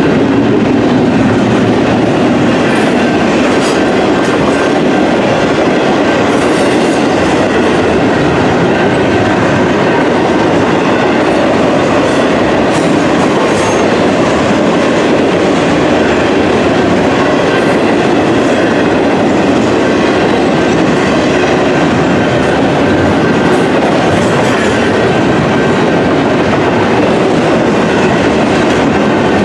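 Union Pacific intermodal freight train rolling past at close range: a loud, steady rumble and clatter of steel wheels on rail that does not let up.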